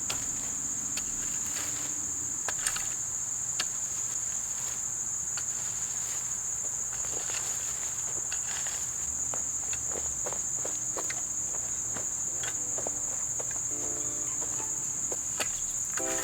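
Steady high-pitched chorus of insects, with scattered light clicks and taps over it. Faint music comes in near the end.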